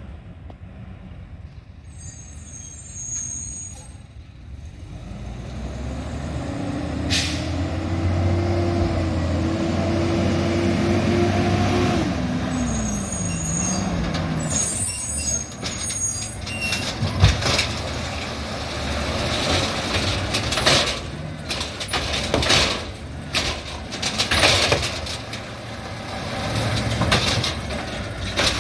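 Garbage truck engine revving up and winding back down, with brief high squeals. In the second half come many sharp clanks and bangs.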